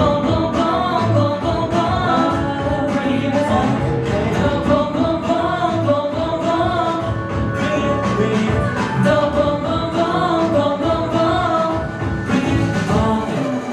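K-pop song with singing over a steady drum beat.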